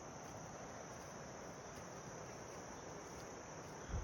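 Steady high chirring of insects, crickets or similar, in summer vegetation, with a low bump at the very end.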